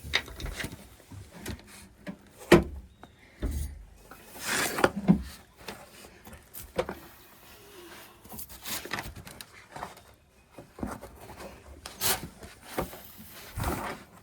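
Irregular knocks, clunks and scraping of hands and tools working on old rusted water pipe fittings, with a few louder knocks spread through.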